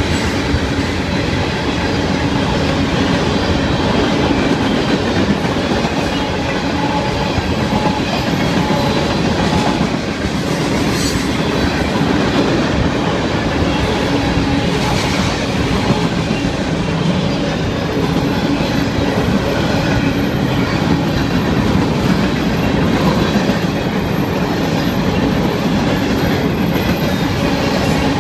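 Freight cars of a mixed freight train rolling past close by: steel wheels running steadily over the rails, with a few brief clanks along the way.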